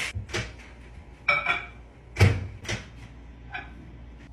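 Microwave oven being used: a run of clunks and knocks as its door is opened and shut, the loudest a little past two seconds in.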